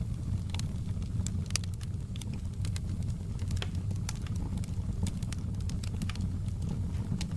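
Fireplace fire crackling: frequent irregular sharp snaps and pops over a steady low rumble of the flames.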